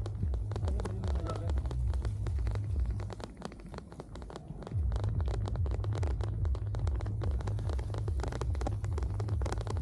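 Rain ticking and crackling on the camera while cycling, a dense irregular patter. Wind on the microphone adds a heavy low rumble that drops away for a couple of seconds a third of the way in.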